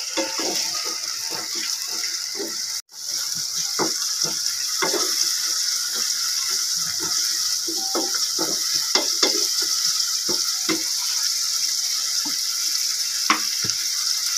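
Small shrimp and sliced onions sizzling in oil in a metal pot, with a wooden spoon stirring and knocking against the pot many times. The sizzle breaks off for an instant about three seconds in.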